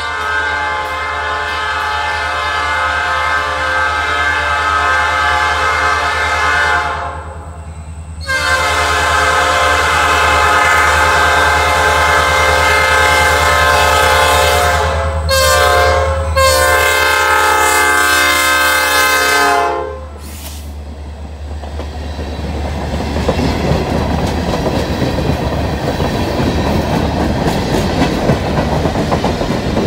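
EMD SD40-2 diesel locomotive horn blowing the grade-crossing signal: two long blasts, a short one and a final long one, over the rumble of the locomotive's engine. About two-thirds of the way through the horn stops, and empty hopper cars roll past with a steady clickety-clack of wheels on the rails.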